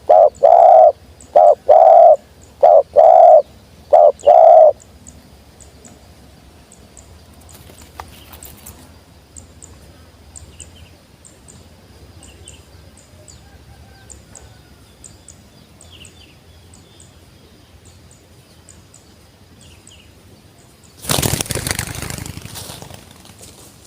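Spotted dove (tekukur) cooing, a run of loud repeated coos that stops about five seconds in, followed by faint high chirps. About 21 seconds in comes a burst of wing flapping that dies away over two or three seconds.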